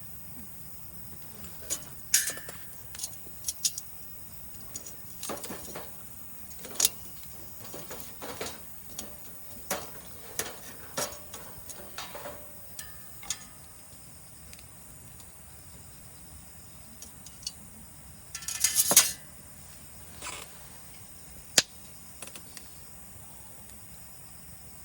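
Scattered light clinks and knocks of metal camp gear being handled, with one louder rattling burst of about a second near the end.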